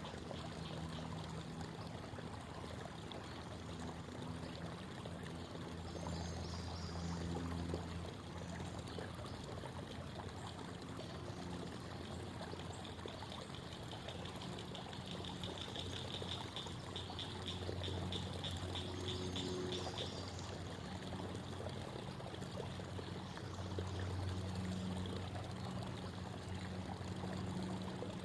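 Creek water babbling and trickling steadily over stones. A faint, rapid high trill comes in partway through and stops again.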